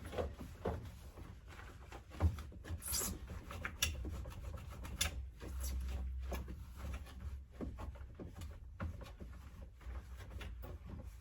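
Wiping and scrubbing with a cloth inside a washing machine's soap compartment, with irregular scraping, rubbing and small clicks and knocks of the plastic.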